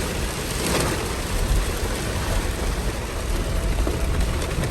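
Steady rain falling, an even hiss with a low rumble under it.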